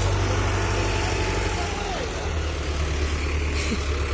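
Powertrac tractor's diesel engine running steadily, its note dropping lower about one and a half seconds in.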